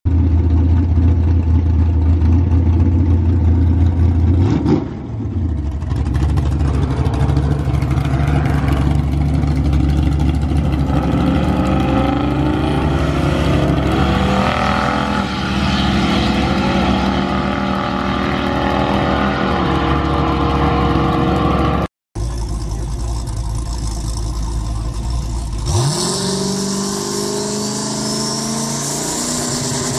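Vehicle engines accelerating hard, the pitch climbing in steps as if through the gears. A sharp cut comes about 22 seconds in, and another engine starts a rising run near the end.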